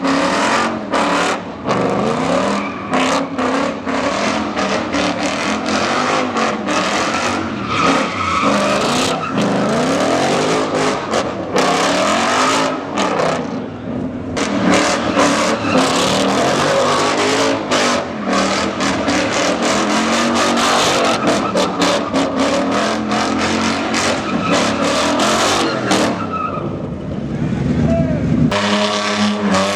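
Car engines revving hard again and again while tyres spin and squeal in burnouts.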